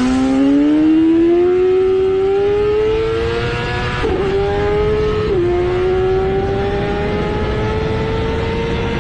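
BMW S1000RR superbike's inline-four engine and exhaust pulling hard through the gears: the engine note climbs steadily, dips briefly at two quick upshifts about four and five seconds in, then climbs again.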